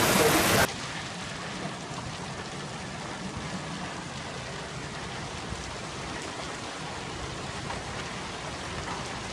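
Heavy rain pouring steadily onto pavement and grass. A louder, harsher downpour cuts off suddenly under a second in, giving way to a steady, softer rush of rain.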